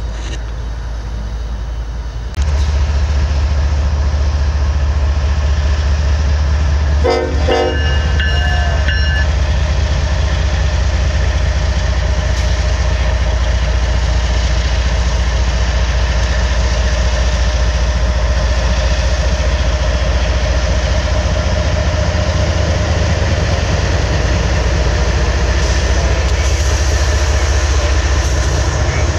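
BNSF diesel freight locomotives rolling past close by, their engines a loud steady rumble that swells about two and a half seconds in. A short locomotive horn blast sounds about seven seconds in.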